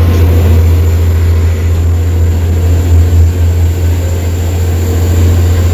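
Passenger train running, heard from inside a coach: a loud, steady low rumble with a wide noisy haze above it.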